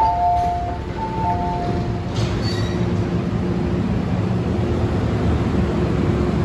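A two-tone electronic chime, high then low, sounds twice. Then an MTR M-train's steady running hum and rumble grows slowly louder.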